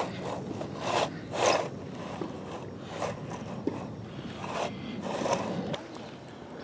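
Scraping and scuffing in loose dirt, a string of short, irregular scrapes.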